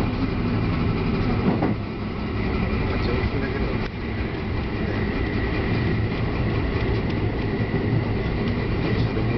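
Electric train running, heard from inside the front car: a steady rumble of the wheels on the rails.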